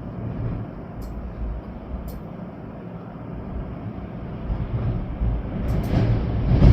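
Storm wind gusting with a low rumble, buffeting the microphone, and rain; it swells into a stronger gust near the end. A few short sharp ticks come through, about a second in, at two seconds and just before the end.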